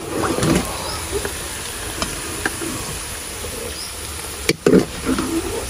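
Bitter gourd slices sizzling in hot ghee in a karahi, while a metal ladle scrapes and clinks against the pan and a steel plate as the fried pieces are lifted out. The loudest knocks come about four and a half seconds in.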